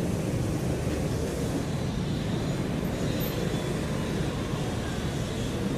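Steady low drone of a Cessna 208B Grand Caravan's single turboprop engine passing overhead at a distance, even and unchanging.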